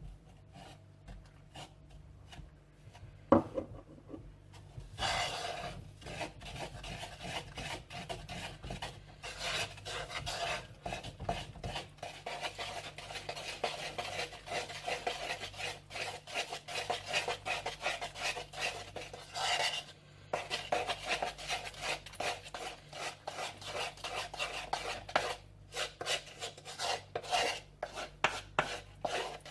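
A utensil stirring thick chocolate cake batter of flour, sugar, cocoa and milk in a bowl: quick, continuous scraping strokes against the bowl, with a single sharp knock about three seconds in.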